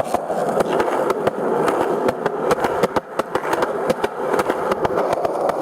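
Skateboard wheels rolling over a rough road surface: a continuous gritty rumble with many sharp clicks and knocks from cracks and pebbles.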